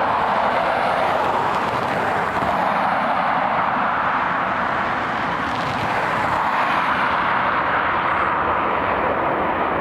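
An airliner's engines making a loud, steady rush of engine noise.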